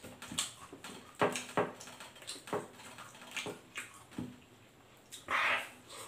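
Close-up eating sounds of fried chicken and rice eaten by hand: wet chewing, lip smacks and mouth clicks in an irregular string. A short hiss about five seconds in.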